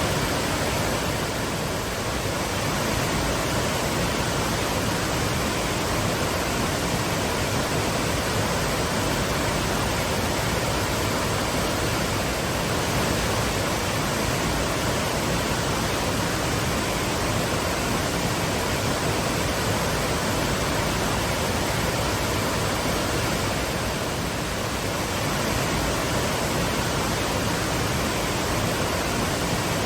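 Twin waterfalls rushing, a steady full roar of falling water with no pauses.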